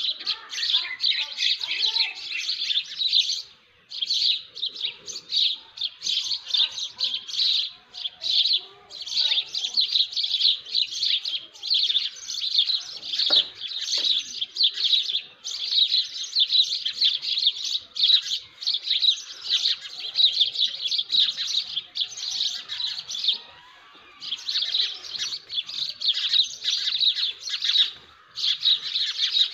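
A flock of small birds chirping densely and rapidly, in runs of several seconds with a few brief pauses.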